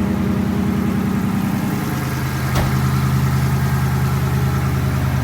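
A Hemi V8 car engine idling steadily, its note shifting slightly about two seconds in. A short click about two and a half seconds in.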